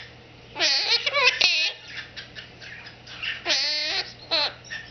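Quaker parrot (monk parakeet) chattering: four short, high calls that waver in pitch, the longest about three and a half seconds in, with faint scratchy ticks between them.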